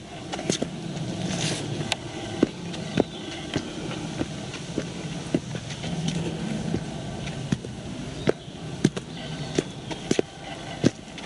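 Footsteps on a hard path at a walking pace, sharp steps about two a second over a steady outdoor background noise.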